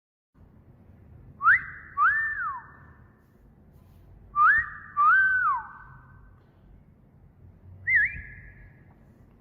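Wolf whistle, given twice: a quick rising sweep and then a rise-and-fall note, each ringing on briefly after it. A shorter wavering whistle comes near the end.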